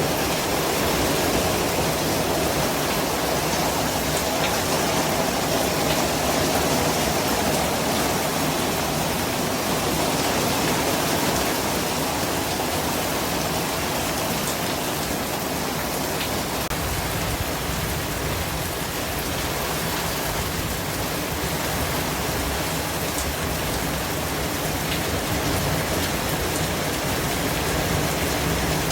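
A steady, even hiss spread across low and high pitches, swelling slightly now and then, with a few faint ticks: a continuous white-noise track with a rain-like texture.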